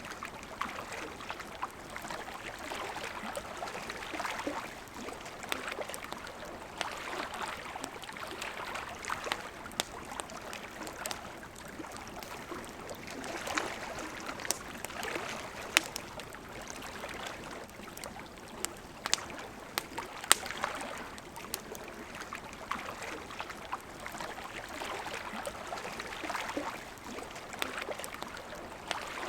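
River water flowing and gurgling in a steady, gently swelling rush, with a campfire crackling over it in scattered sharp pops.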